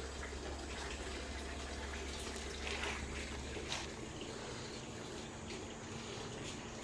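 Steady hiss of running and dripping water. A low hum stops about three seconds in, and there are a couple of light knocks near the middle.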